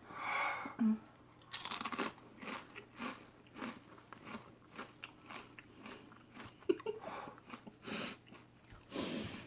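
A person biting into a crisp habanero potato chip and chewing it: one loud crunch, then repeated smaller crunches about twice a second.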